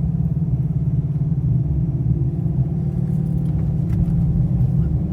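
Holden VF Commodore SSV's 6.0-litre V8 running steadily, a low, even engine sound heard from inside the car's cabin.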